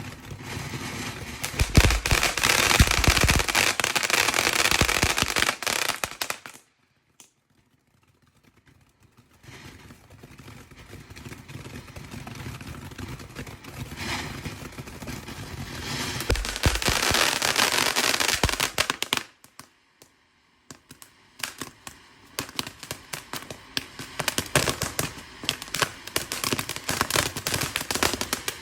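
Fireworks going off: dense crackling and fizzing shot through with sharp bangs, with heavy thumps about two seconds in. The sound twice drops out abruptly to silence for a couple of seconds before the crackling and bangs pick up again.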